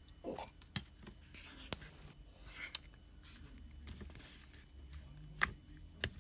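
Slime being handled and worked with acrylic paint: a scattering of sharp sticky clicks and pops over soft rustling, the loudest snaps at about one and a half seconds and near the end.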